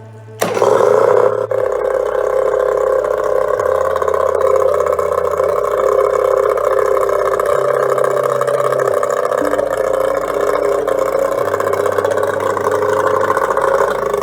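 Yamaha outboard motor starting up abruptly about half a second in and running steadily, then cutting off at the very end.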